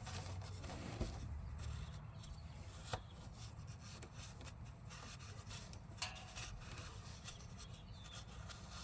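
Faint rubbing of a hand and rag wiping the ATV's oil filter mounting surface clean, with a few light knocks about 1, 3 and 6 seconds in.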